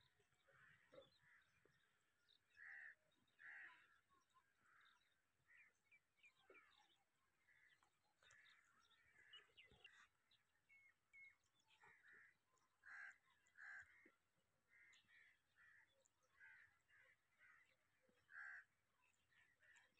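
Near silence with faint short bird calls repeating every second or so, and a few light clicks.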